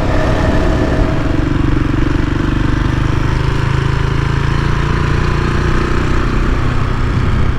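KTM 690 Enduro's single-cylinder engine running steadily at road speed while the bike cruises.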